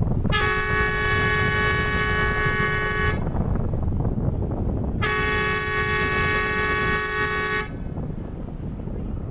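Passenger ship's horn sounding two long blasts, the second starting about two seconds after the first ends. They warn a fishing boat blocking the ship's path to give way. A low rumble of wind on the microphone runs beneath.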